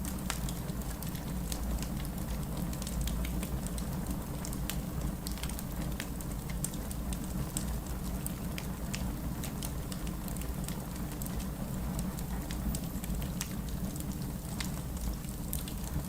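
Wood fire crackling with frequent sharp pops and snaps over a steady low rush of rain.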